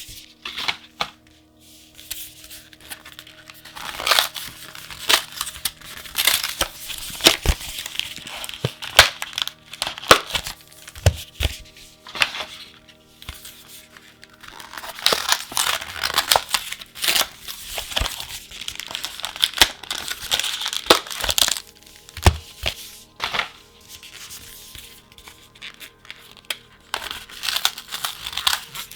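Plastic packaging of a pack of trading-card sleeves being handled and opened: irregular crinkling and tearing with sharp clicks and crackles, in quick clusters with short pauses between. Faint steady background music runs underneath.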